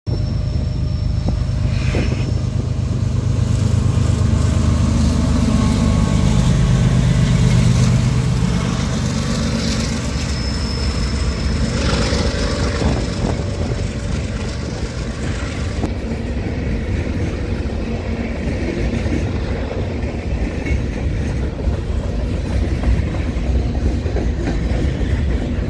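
CSX freight train passing close by. Its diesel locomotives' engines rumble loudest in the first eight seconds or so. Then the covered hopper cars roll past with a steady clatter of wheels on rail, and a brief high squeal comes twice.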